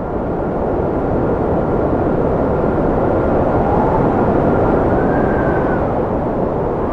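Cold wind blowing hard with a steady rushing noise and a thin high whistle that rises and falls in pitch as it gusts, about five seconds in.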